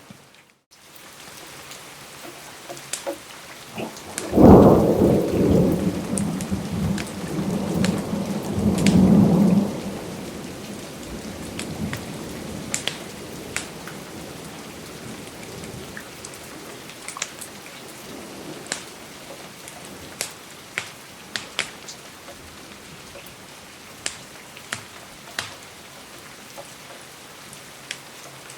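Steady rain with a rolling thunderclap about four seconds in that rumbles for around five seconds before fading. Scattered sharp ticks and pops sound over the rain.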